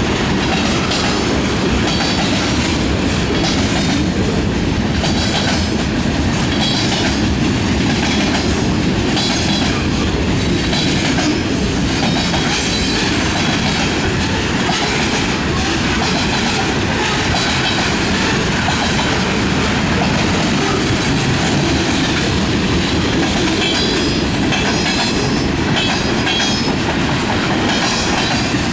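Manifest freight train rolling past at steady speed, its freight cars' wheels clacking over rail joints over a continuous heavy rumble.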